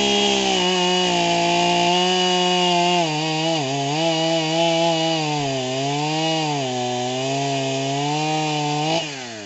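Chainsaw held at full throttle, its pitch sagging and recovering repeatedly as the chain bogs down cutting into wood. Near the end the throttle is released and the engine drops quickly toward idle.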